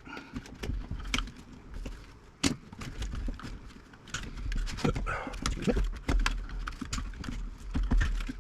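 Irregular clicks, knocks and rattles of metal radio-chassis parts, wires and hand tools being handled and cut, over a low handling rumble.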